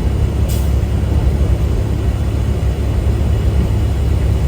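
Steady low rumble of a semi-truck's engine and road noise heard inside the cab while driving. A brief high hiss comes about half a second in.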